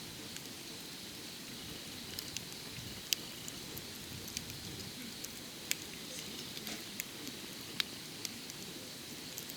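Wood fire burning, a steady hiss with sharp crackles and pops at irregular intervals, the loudest about three seconds in.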